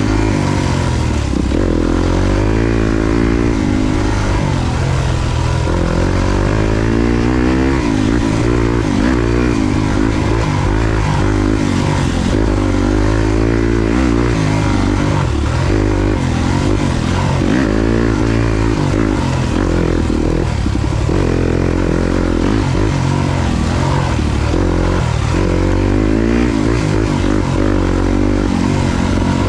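Yamaha YZ250FX's 250 cc single-cylinder four-stroke engine being ridden off-road, revving up and falling back over and over as the throttle is opened and closed every second or two.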